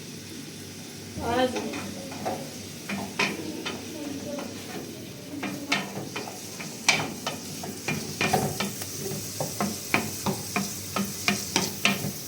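A run of short clicks and knocks, like hard objects being handled and tapped, coming faster and closer together in the last few seconds.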